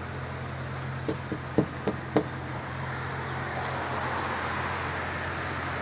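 Steady low engine hum, with a handful of sharp knocks about one to two seconds in.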